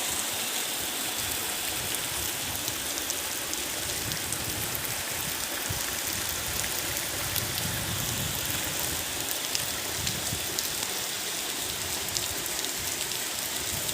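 Steady rain falling, with many small drop ticks spread through it.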